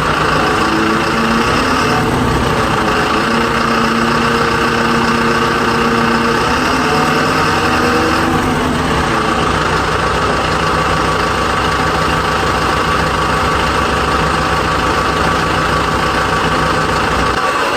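A vehicle engine running steadily at idle, with a tone that bends up and back down about halfway through.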